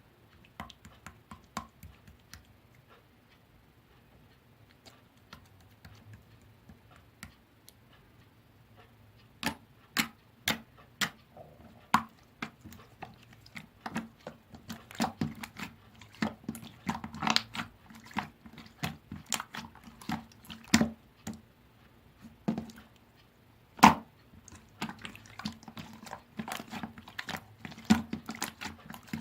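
Jiggly slime being squished and poked by hand, making irregular sticky clicks and wet pops. They are sparse at first and come denser and louder from about ten seconds in.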